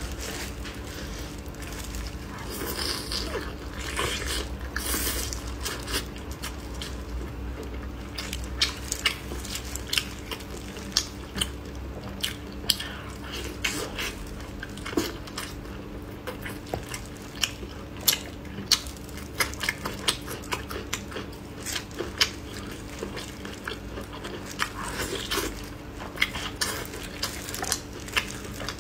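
Close-up eating sounds of a person chewing and tearing roasted pork ribs: many short wet clicks and smacks, uneven and frequent, over a low steady hum.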